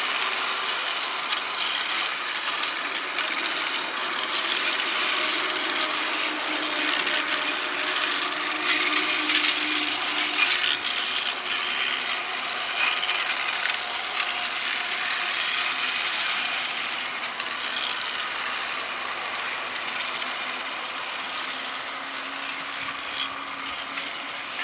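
Train running past on the rails: a steady, continuous rush of wheel-and-rail noise with occasional small clicks and a faint low hum.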